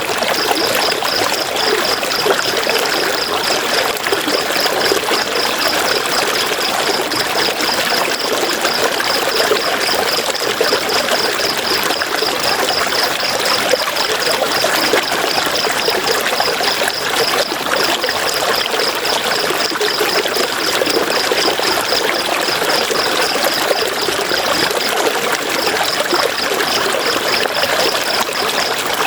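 River water rushing and splashing over rocks in a steady, even flow. A high chirp pulses rapidly and evenly over the water, pausing briefly near the end.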